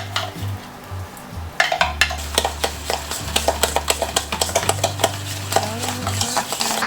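Kitchen clatter: rapid clinks and taps of utensils against dishes, starting about a second and a half in, over background music with a steady bass line.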